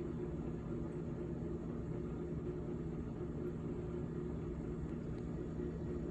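GE GTH18XCTZRBB refrigerator running with a steady hum of several fixed low tones over a soft whir.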